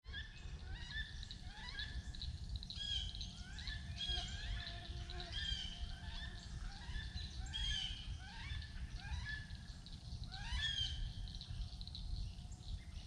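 Woodland birds calling: many short rising whistled notes and chirps, repeated about every half second to second, over a low steady rumble.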